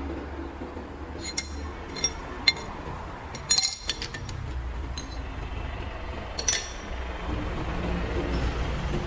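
Metal clinking: about five sharp, ringing clinks of metal striking metal, as of tools or parts being handled, over a steady low hum.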